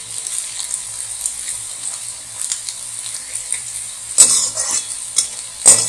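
Peanuts, peas and onion sizzling in hot oil in a metal kadhai as they are lightly roasted. A slotted metal spatula scrapes the pan twice near the end.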